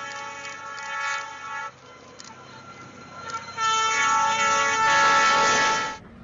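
Train air horn sounding a held chord of several tones. It breaks off about 1.7 s in, then blows again, louder, from about 3.5 s to 6 s.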